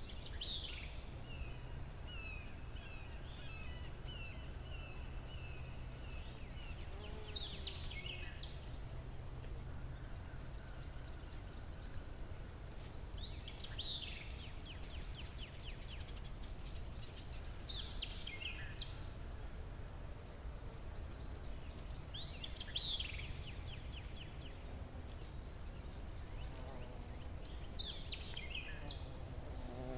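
Forest ambience: a bird sings a short phrase of quick down-sweeping notes about every five seconds over a steady, high-pitched insect buzz, with a low hum underneath.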